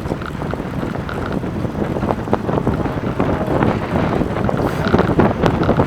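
Wind buffeting the microphone of a camera on a moving bicycle, over a steady low rumble of road and tyre noise with frequent small clicks and rattles, growing a little louder in the second half.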